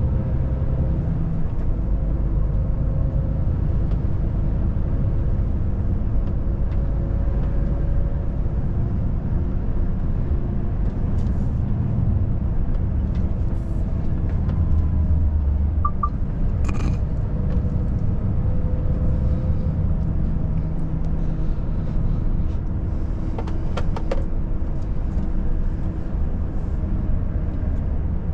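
Volvo FH540 truck's 13-litre six-cylinder diesel and tyres on the road: a steady low drone and rumble while driving, with a few short clicks about halfway through and again near the end.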